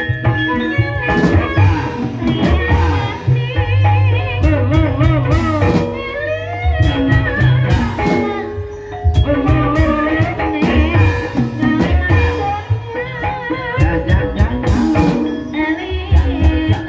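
Live gending ebeg music, the gamelan accompaniment to a kuda kepang dance. Deep drum strokes and sharp percussion hits play under steady ringing pitched tones, with a wavering singing voice over them.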